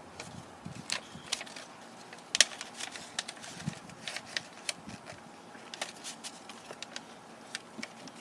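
Origami paper being folded and creased by hand: irregular crisp crackles and small snaps, with one louder crack about two and a half seconds in.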